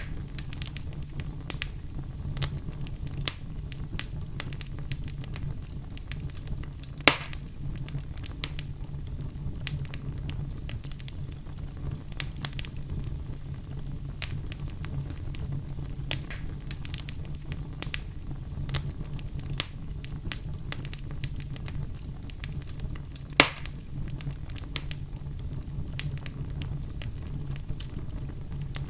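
Wood fire burning in a fireplace: a steady low rumble of flames with scattered crackles throughout and two louder pops, about a quarter of the way in and again near the three-quarter mark.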